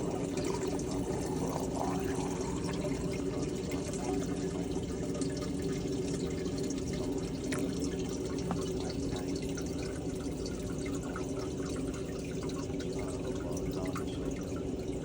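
Water trickling and dripping into a crawl-space trap drain as its function is tested, over a steady low hum.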